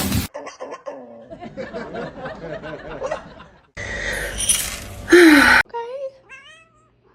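A person laughing for a few seconds, then, after a cut, a louder burst and a few short, high calls that rise and fall.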